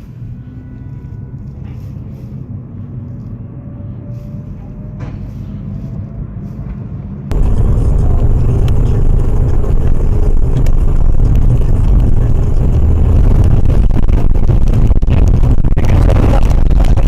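Car driving noise picked up by a dashcam: a low rumble for about seven seconds, then a sudden jump to a much louder, dense rumbling noise that runs on.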